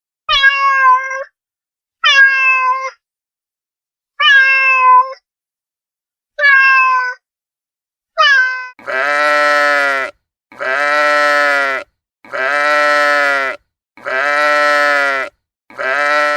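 Domestic cat meowing five times with pauses between. From about nine seconds in, a deeper, longer animal call repeats five times at even intervals.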